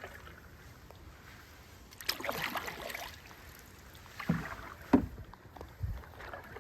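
Canoe paddling: a paddle stroke swishing through the water about two seconds in, then a few short, sharp knocks and splashes, the loudest about five seconds in.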